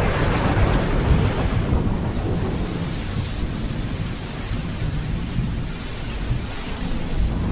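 Thunder: a sharp clap right at the start rolls into a long low rumble that slowly fades, over the steady hiss of rain.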